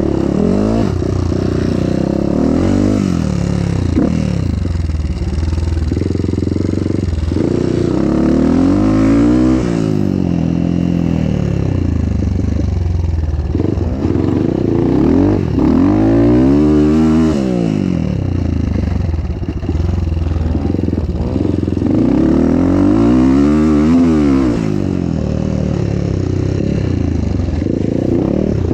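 Motocross motorcycle engine revving up and back down in pitch about four times as the bike is ridden round a dirt track, over the steady hum of another motorcycle engine running close by.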